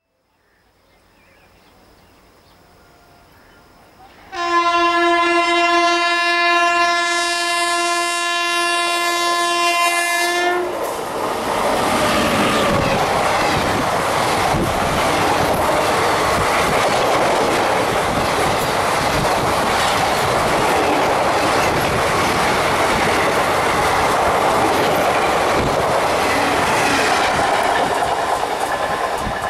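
A WAP-7 electric locomotive approaches, faint at first, then sounds one long, steady horn blast of about six seconds. Its express coaches then pass at speed: continuous loud wheel-and-rail noise with clattering over the rail joints.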